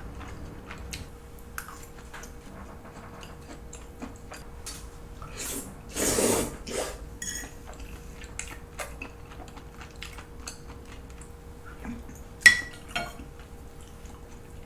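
Cutlery clinking and scraping on a plate while eating, in scattered small clicks. There is a louder brief noise about six seconds in and a sharp ringing clink near the end.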